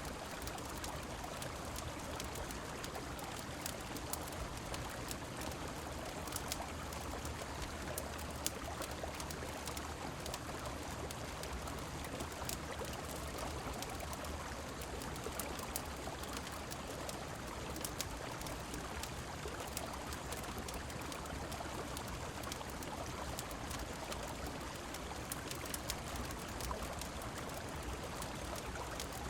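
Steady rushing of river water mixed with falling rain, with scattered sharp crackles from a wood fire in a fireplace.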